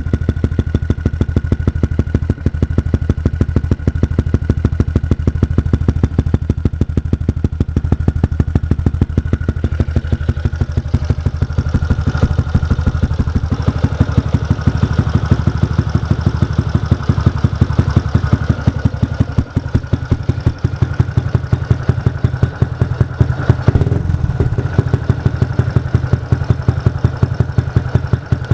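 Yamaha Jupiter MX 135's single-cylinder four-stroke engine idling steadily through an R9 aftermarket silencer, with an even, regular exhaust beat.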